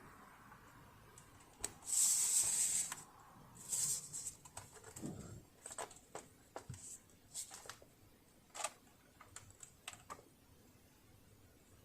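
A spray can hissing in a burst of about a second, then a shorter burst, as the seized sewing-machine mechanism is sprayed. Scattered light clicks and taps follow.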